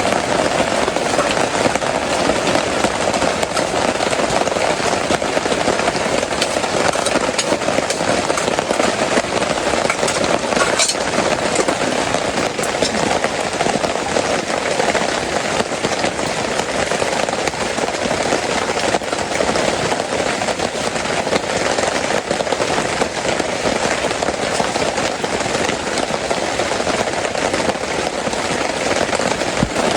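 Heavy rain falling steadily onto a small tent awning, a dense, even patter of drops that doesn't let up.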